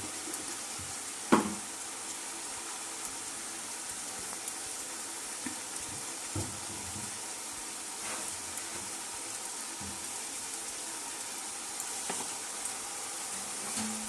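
Chicken, onions and potatoes frying in mustard oil in a steel pan, a steady sizzle. A sharp knock about a second in and a few lighter knocks later.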